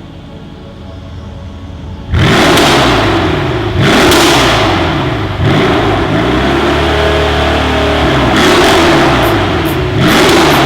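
Mercedes S63 AMG V8 engine, breathing through a Capristo aftermarket exhaust. About two seconds in it is suddenly revved hard. It is then blipped up and let fall back over and over, about every one and a half seconds, with a briefer steady hold in the middle.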